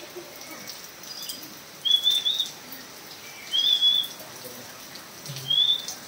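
A caged bird in an aviary giving three short, high whistled calls, about a second and a half apart.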